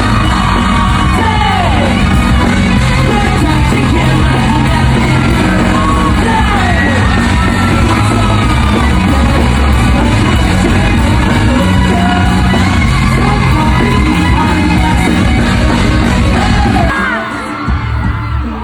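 Live amplified pop music with singing, and a crowd yelling and whooping along. The music drops away about seventeen seconds in.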